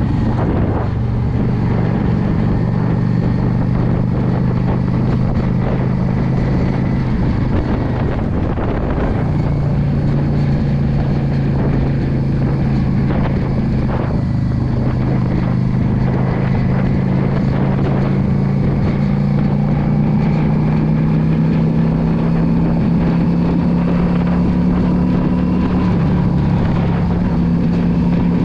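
Yamaha V Star 650 cruiser's V-twin engine running steadily under way, with wind noise on the microphone. About eight to nine seconds in the engine note drops and picks up again at a new pitch, like a gear change, then rises slowly as the bike accelerates.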